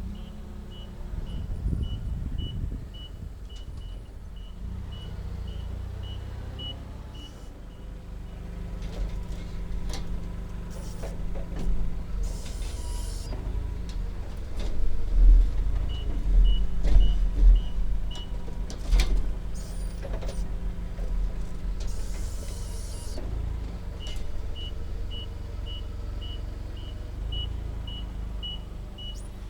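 Kenworth T660 semi truck's diesel engine running, heard from inside the cab, with a turn signal ticking about twice a second in stretches. Two short hisses of air come in the middle.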